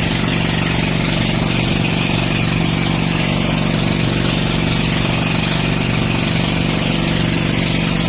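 An engine running steadily at an even speed, a constant hum with a broad rushing noise over it.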